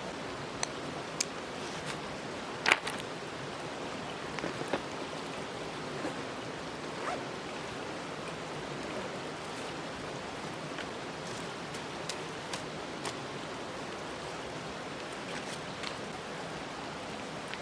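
Steady rushing outdoor noise with scattered sharp clicks and light knocks, the loudest click a little under three seconds in.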